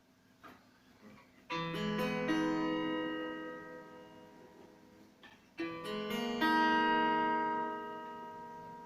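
Electro-acoustic guitar strummed in two chords, about four seconds apart, each left to ring and fade, played as a test after its bridge was reglued and the instrument reassembled.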